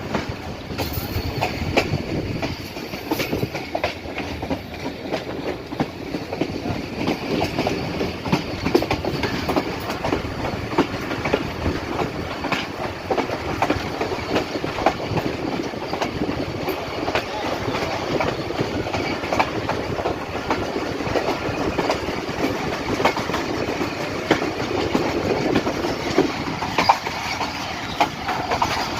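Passenger train running along the track, its wheels clattering steadily over the rail joints in a dense clickety-clack.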